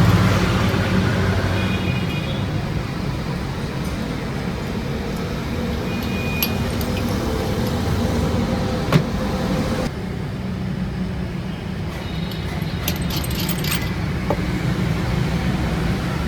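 Workshop machinery running with a steady low hum, with a few sharp clicks and knocks; the sound changes abruptly about ten seconds in.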